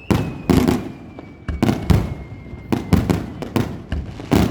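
Fireworks shells bursting in quick succession, about ten sharp bangs at an uneven pace, each trailing off in a rumbling echo.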